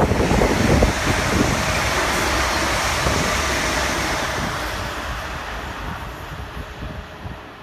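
London Northwestern Railway Class 350 electric multiple unit passing at speed: a steady rush of wheels on rail that fades away over the last few seconds as the train recedes. Wind buffets the microphone at the start.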